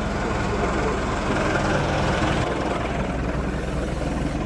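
A big tractor's diesel engine running steadily with a low hum.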